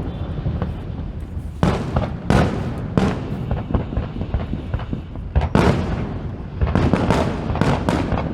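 Aerial fireworks bursting one after another, each a sharp bang trailing into rumble, with the bursts coming thicker and faster in the last few seconds.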